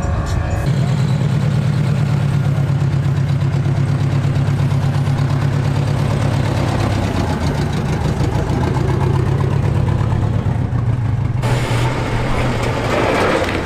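A vehicle engine running with a steady low hum that shifts pitch a few times, and more hissing noise joining near the end.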